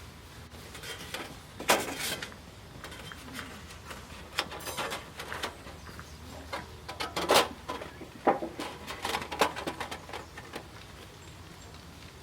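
Irregular clicks, knocks and rustling of objects being handled, with the sharpest knocks about two seconds in and again past the middle.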